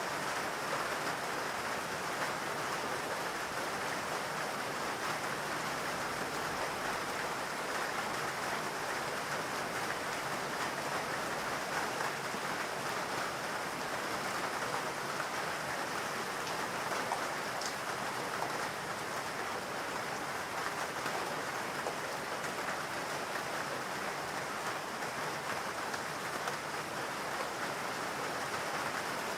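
Steady rainfall, a constant even hiss of rain on foliage and ground, with one brief drip-like tick a little past halfway.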